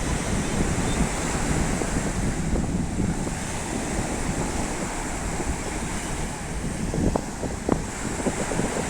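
Sea waves washing in steadily, with wind buffeting the microphone; two brief sharper sounds stand out near the end.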